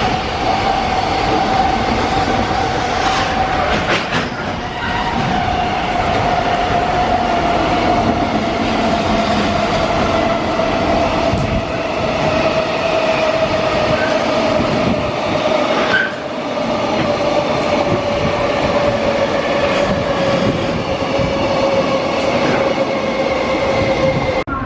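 A freight train's wagons rolling past on steel rails: a loud, steady rumble of wheels, with a ringing tone that sinks slowly in pitch.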